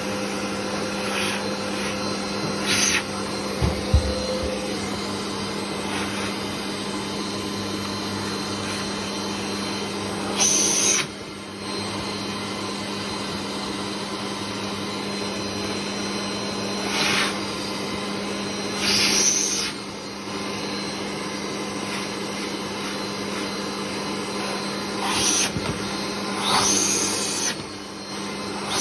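Mitsubishi vacuum cleaner running steadily on medium suction with its original brush attachment, worked over a cat's belly and rump. Every few seconds there is a brief, louder rush of air, and a single low thump comes about four seconds in.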